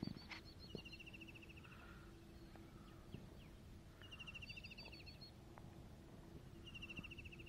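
Faint outdoor quiet with a songbird singing a short, fast trill three times, about three seconds apart, over a low steady hum.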